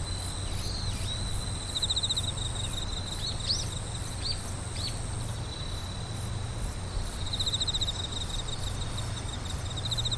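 Chorus of night-singing insects (crickets). A steady high trill swells into louder pulsed stretches about 2 s in and again near the end, over a fast, even, very high pulsing. A few brief high chirps come between about 3 and 5 seconds, all over a low steady hum.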